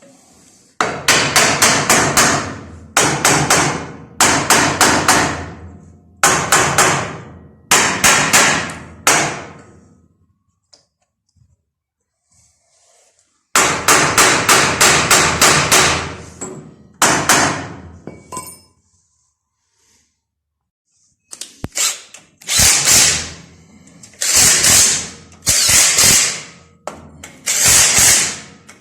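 Power tool running in repeated short bursts of about a second each, every burst a rapid string of knocks. The bursts come in clusters with pauses between them. Near the end the bursts sound smoother and hissier.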